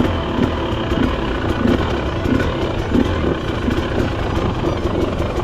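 Husqvarna TE300 TBI's two-stroke, throttle-body-injected engine running as the bike pulls away, with small surges in level. The engine is brand new, at zero hours.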